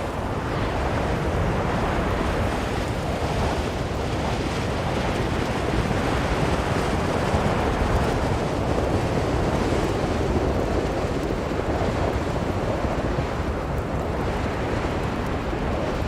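Blizzard wind blowing steadily, a deep rushing noise that swells slowly and eases off again.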